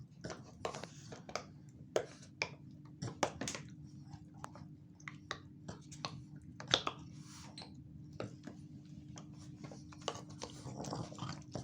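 An American Staffordshire terrier puppy and a Boston terrier play-fighting: an irregular run of clicks, snaps and scuffles from mouthing jaws and paws. A faint steady hum joins about three seconds in.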